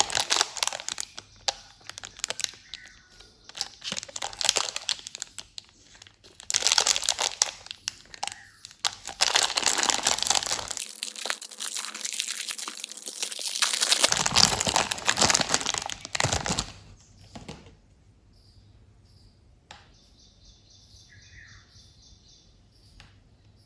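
Plastic candy wrappers crinkling and tearing as candies are unwrapped, in loud irregular spurts. About seventeen seconds in the crinkling stops, leaving faint bird chirps.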